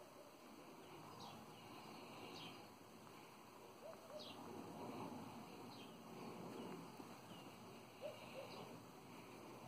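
Faint outdoor background with a small bird chirping now and then: several short, high, falling calls a second or two apart.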